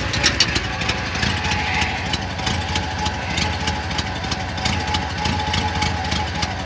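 Chevrolet Monte Carlo engine idling steadily after a cold start, with a steady whine above the engine note from about a second and a half in, which the owner puts down to the power steering pump's bearings, worn after a gearbox leak.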